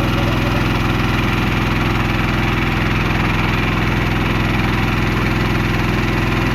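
Boat engine running at a steady speed, with an even low throb.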